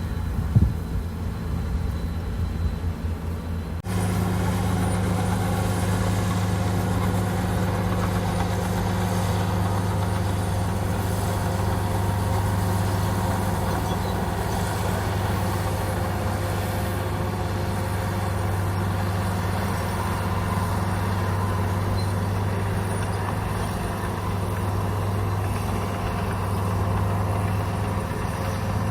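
Komatsu bulldozer's diesel engine running steadily with a deep, even hum. A single sharp knock comes about half a second in, and the engine sound shifts abruptly and grows louder about four seconds in.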